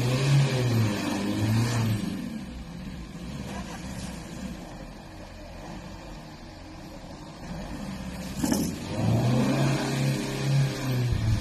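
Opel Insignia A engine revving in two spells, near the start and again from about eight and a half seconds in, with a quieter stretch between, as the car struggles to move off wet, snowy grass. A sharp knock is heard just as the second spell begins.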